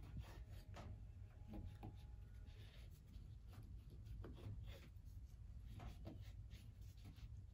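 Cooked flatbread being cut into small squares: faint, irregular cutting and scraping strokes, about one or two a second, over a steady low hum.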